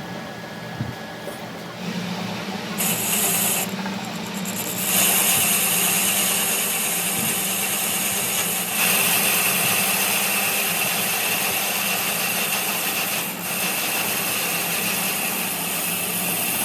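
A power tool running steadily and working against metal, with a grinding or filing sound. It builds up over the first few seconds and gets louder about five seconds in.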